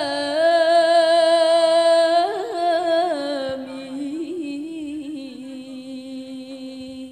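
Voices singing a sholawat, drawing out a long held note on "salami" with a wavering melismatic turn about two to three seconds in, then settling onto a lower held note that slowly fades and cuts off at the end.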